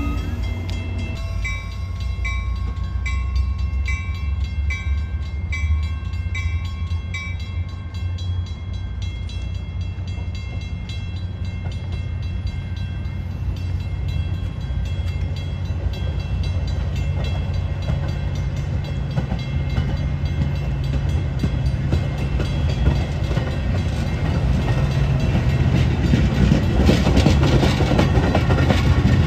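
A train rumbling along the track, growing louder over the last few seconds. A bell rings in regular strokes, about two a second, from about a second in until about seven seconds in.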